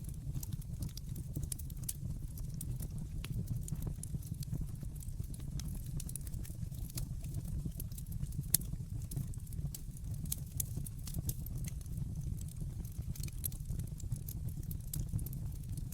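Wood fire burning with a steady low rumble and frequent irregular crackles and pops from the burning logs, one pop about halfway through louder than the rest.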